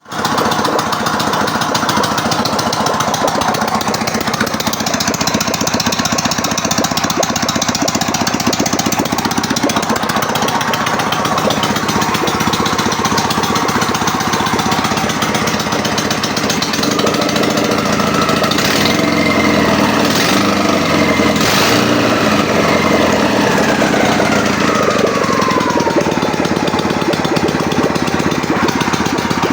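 A Ural M-63 motorcycle's flat-twin engine runs loudly on a stand on its first start after a full rebuild, with a rapid, even beat. In the last third its pitch climbs and then falls back.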